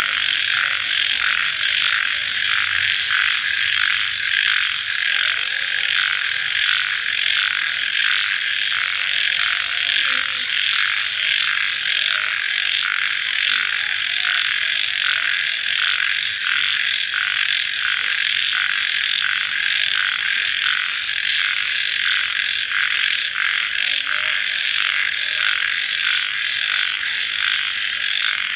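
Dense night chorus of crickets: a steady high pulsing trill that never breaks.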